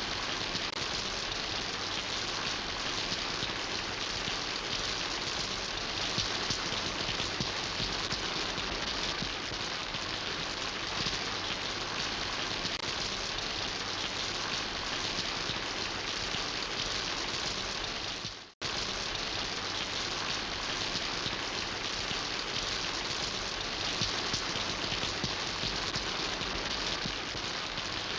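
Steady rain falling, an even hiss of drops on surfaces with no pauses, except for a split-second cut to silence about two-thirds of the way through.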